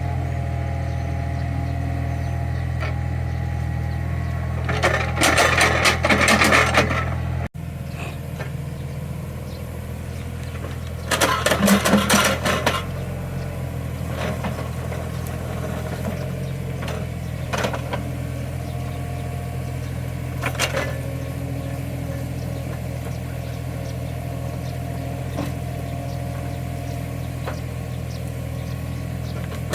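Small CAT excavator's diesel engine running steadily as it digs soil, with two loud bursts of rattling clatter, about five and about eleven seconds in, and a few single knocks later on.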